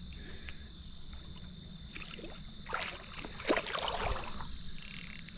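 Creek water sloshing and splashing, with a few short splashes between about two and four seconds in, over a steady low rush of flowing water.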